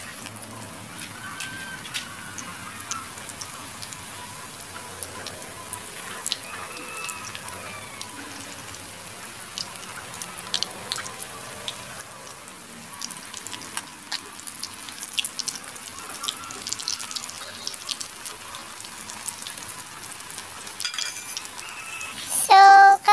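Banana flower fritters frying in hot oil in a wok: a steady sizzle scattered with small crackles and pops. Near the end a loud singing voice cuts in.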